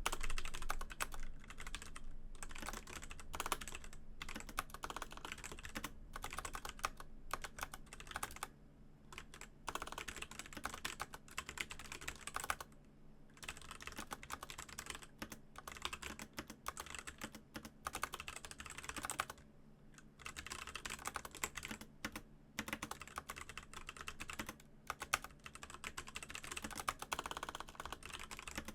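Continuous typing on a Razer BlackWidow Elite mechanical keyboard with Razer Orange tactile switches: fast runs of keystrokes broken by brief pauses every few seconds.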